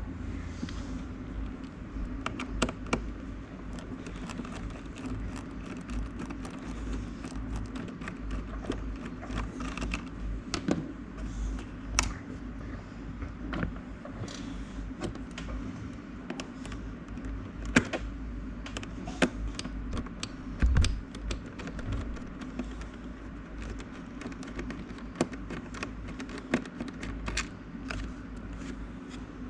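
Scattered light clicks and taps of a screwdriver and hands working on the mini fridge's power supply screws and plastic casing, over a steady low hum.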